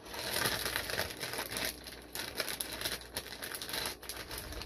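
Plastic fish shipping bags crinkling and rustling as they are handled, in an uneven run of crackles that starts abruptly and stops near the end.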